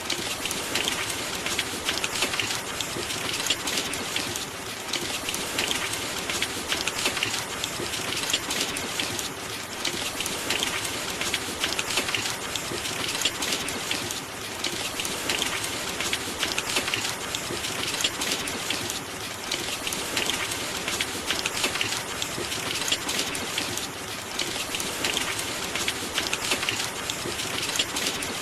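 Steady rain falling, a dense even patter of countless drops that eases slightly every few seconds.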